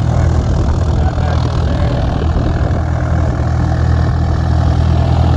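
An engine idling steadily: a constant low hum that neither rises nor falls.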